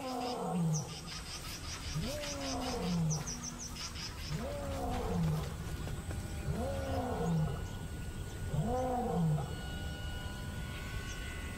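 Male lion roaring: a series of five deep calls about two seconds apart, each rising then falling in pitch. It is a pride male's territorial roar, a message of ownership. A quick train of high insect-like ticks sounds early on.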